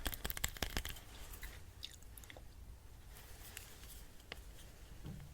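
Small, close-miked clicks and crackles: a quick dense run in the first second, then sparse scattered ticks.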